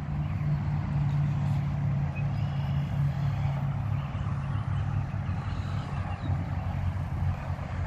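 A steady low engine hum with an even hiss over it.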